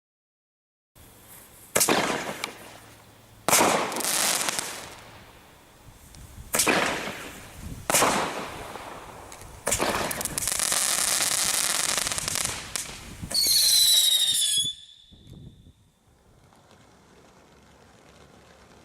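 Consumer fireworks from a Bright Star bonfire selection box going off: five sharp bangs a second or two apart, each trailing off into a hissing crackle, then a steady hiss. Near the end a shrill whistle sounds for about a second and dips slightly in pitch before cutting off.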